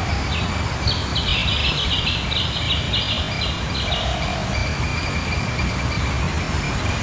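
A steady low outdoor rumble, with a bird calling a quick run of repeated high chirps, about three a second, for the first few seconds.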